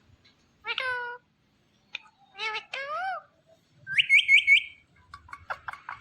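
Indian ringneck parrot calling: a few drawn-out, meow-like calls that bend in pitch, then a loud run of four quick shrill chirps about four seconds in, and a string of short rapid calls near the end.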